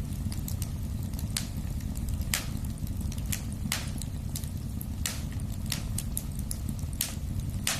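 Wood fire burning in a fireplace: a steady low rumble of the flames with sharp crackles and pops, a loud one every second or so and fainter ones between.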